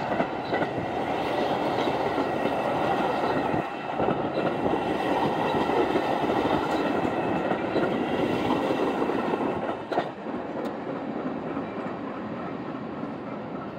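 Metra commuter train of stainless steel bilevel gallery cars rolling past close by, wheels clattering over the rail joints, with a steady high tone above the rumble. About ten seconds in the noise drops as the last car, the cab car, goes by, and the train rolls away more quietly.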